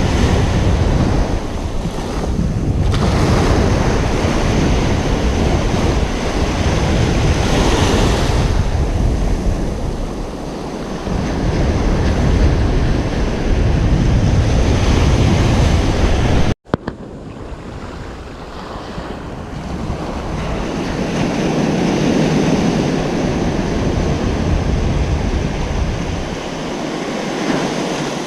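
Ocean surf breaking and washing on a beach in slow swells, with wind rumbling on the microphone. A sudden cut about two-thirds of the way through, after which the surf is quieter with less wind rumble.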